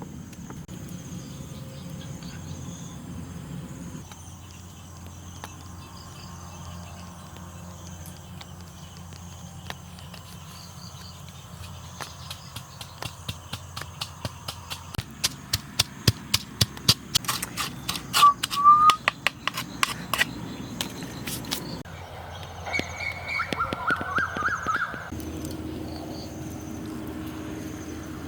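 Forest ambience with insects chirping steadily, broken in the middle by a quick run of loud, sharp clicks and a few short high chirps.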